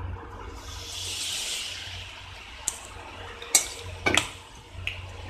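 Shredded spinach leaves coated in cornflour sizzling as they go into hot oil for deep-frying. The hiss swells about half a second in, peaks a second or so later, then settles to a steady frying bubble. A few sharp clicks come in the middle.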